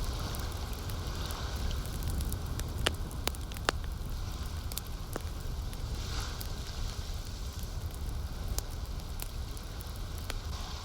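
Campfire crackling, with a few sharp pops over a steady low rumble and the soft wash of lake water lapping.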